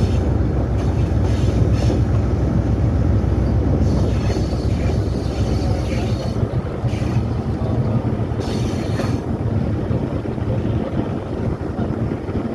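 Train rolling slowly along the track, a steady low rumble of the locomotive and wheels, with two brief hissing bursts about seven and nine seconds in; the rumble eases in the second half.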